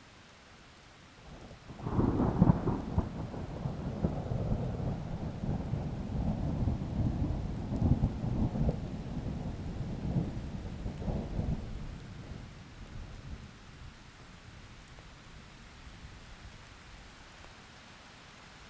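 A peal of thunder breaks in about two seconds in and rumbles on for some ten seconds before dying away, over a faint steady patter of rain.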